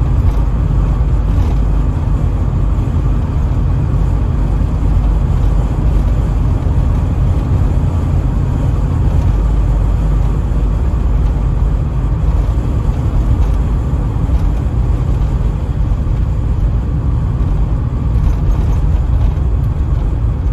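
Steady in-cabin road and engine drone of a 1984 Pontiac Trans Am cruising on the highway, heavy low rumble with even tyre and wind noise and no change in pace.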